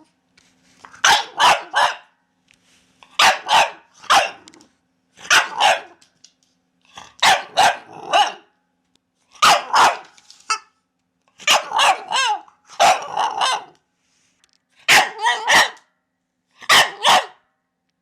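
Dog barking in short runs of two or three barks, a run about every two seconds, with brief silences between.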